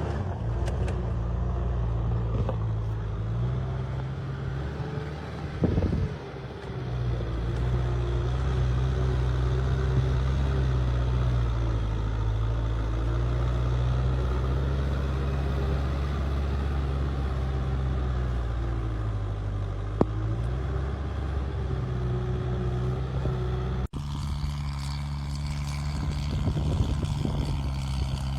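A tractor engine running steadily. Its pitch sags briefly about six seconds in and again around twenty seconds. The sound breaks off abruptly about 24 seconds in, and the engine goes on with a changed tone.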